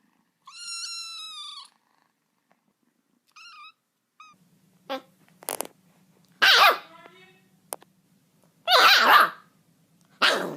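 A cat's long, high meow about half a second in, followed by a few short chirps. From about four seconds in a steady low hum runs under three loud, harsh animal cries.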